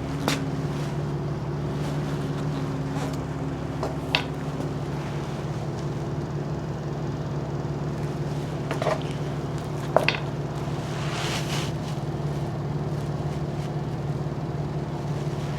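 A steady low mechanical hum, with a few light clicks and knocks and a short rustle of handling.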